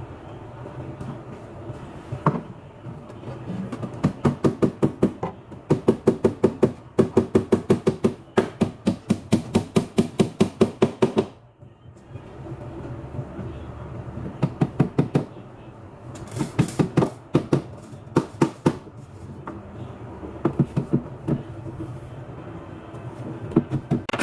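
Runs of sharp, evenly spaced knocks, about four or five a second: one run of several seconds in the first half and shorter runs later on.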